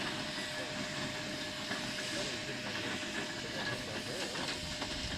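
Erie Type A steam shovel hissing steam steadily as it works, with a faint steady tone and scattered light clicks.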